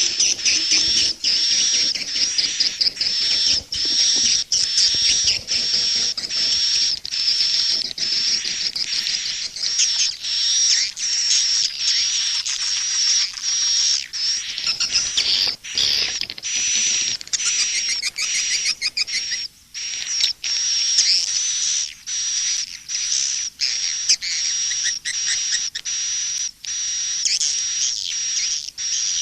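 Edible-nest swiftlet calls, a dense, unbroken, high-pitched twittering of rapid chirps several times a second. This is a recorded swiftlet call (suara panggil) track, played to lure swiftlets into a nesting house.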